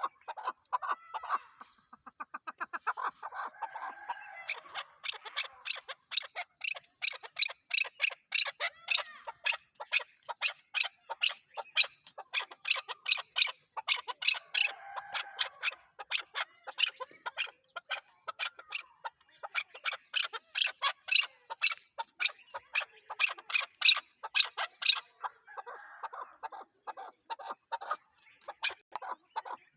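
Chukar partridge calling: long runs of sharp, rapidly repeated chuk notes, several a second, broken a few times by softer, lower warbling calls.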